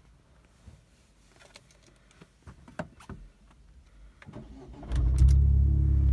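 Vauxhall Corsa VXR's 1.6-litre turbo four-cylinder engine being started: a few light clicks, a brief crank about four and a half seconds in, then it catches about five seconds in and runs at a loud, steady idle.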